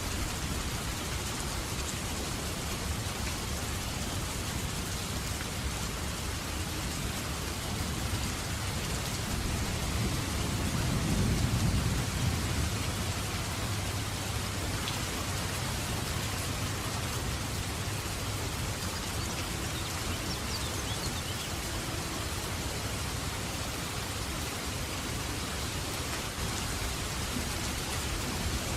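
Steady, heavy rain falling on surfaces, with a low rumble of thunder that swells about ten seconds in and dies away a few seconds later.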